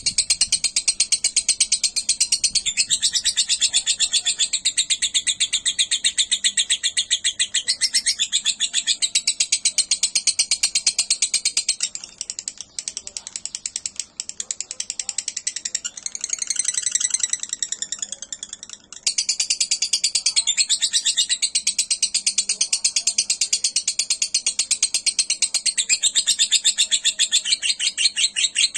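Lovebird chattering in long, rapid trills of fast repeated high notes, the sustained 'ngekek' song of a fighter lovebird. It falters and thins about twelve seconds in, then picks up again at full strength a few seconds later.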